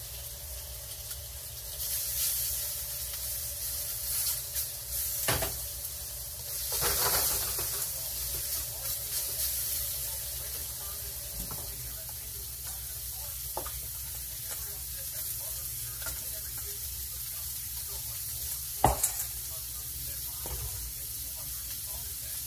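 Shrimp and garlic sizzling in hot oil in a wok: a steady hiss that swells now and then. A few sharp clicks cut through it, the loudest about nineteen seconds in.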